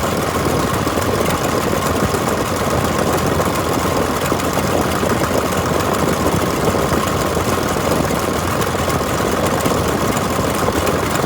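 Diesel engine of a 1993 JCB JS 200 LC tracked excavator running steadily.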